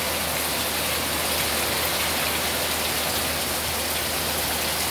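Steady heavy rain falling and pattering on surfaces, an even rushing hiss with no breaks.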